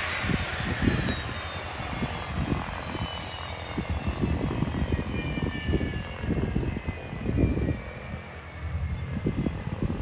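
Embraer Phenom 300 business jet's twin turbofan engines whining as it taxis, the whine slowly falling in pitch. Gusts of wind rumble on the microphone.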